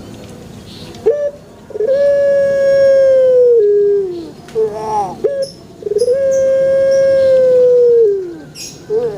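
Puter pelung dove (Streptopelia risoria) cooing: short lead-in notes, then a long drawn-out coo held steady and dropping at its end, given twice.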